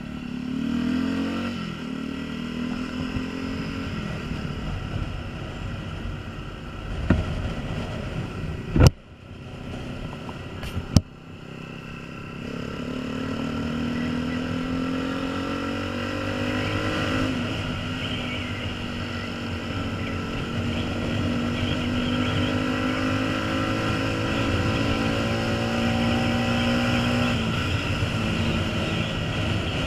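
Honda CBF125's single-cylinder four-stroke engine under way, its pitch climbing and dropping back at gear changes, then holding a steady cruise, with wind rushing over the camera's microphone. A few sharp knocks stand out between about seven and eleven seconds in.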